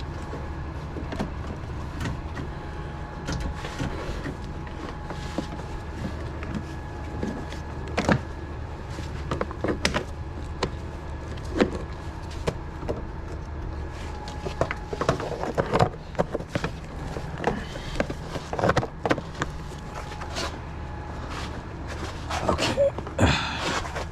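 A vehicle engine idling with a steady low hum. Scattered sharp clicks and knocks, like doors and metal being handled, come over it, more of them in the second half.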